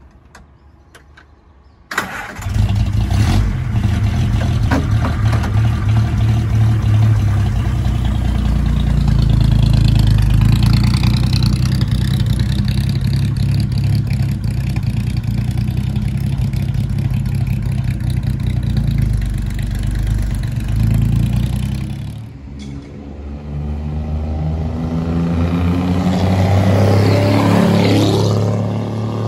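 A 1936 Alvis Silver Eagle's six-cylinder 2148 cc engine catches suddenly about two seconds in and runs loud. It is revved up about a third of the way through, drops back sharply around two-thirds of the way, then rises again and falls away near the end.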